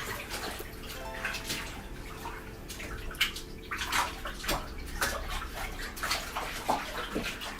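Water sloshing and splashing in a bathtub as a soaked bed cover is trodden underfoot. The splashes are sparse at first, then come about twice a second from a few seconds in.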